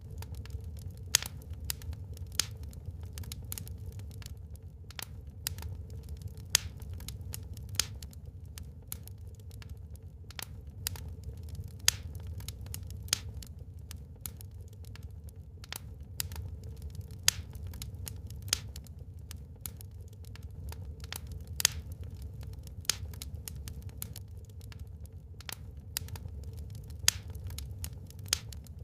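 Wood fire burning in a fireplace: irregular crackles and pops, with a louder snap every few seconds, over a low steady rumble.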